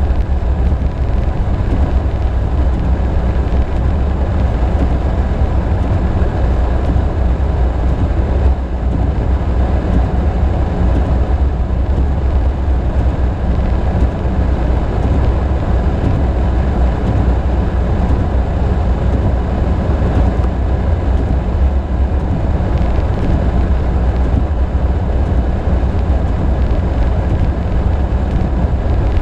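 Steady low rumble of a car driving through deep snow, heard from inside the cabin: engine and tyre noise with no change in speed or rhythm.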